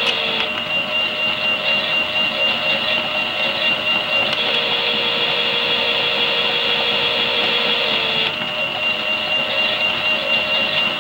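Toy Miele washing machine's small electric motor running a wash with a steady whine. Its pitch switches between two states about every four seconds.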